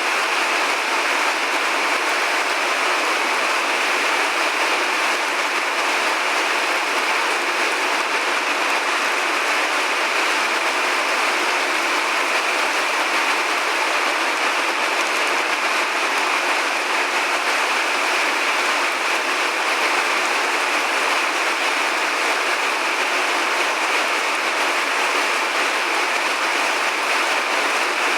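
Rain falling steadily as an even hiss, with no thunder and no deep rumble.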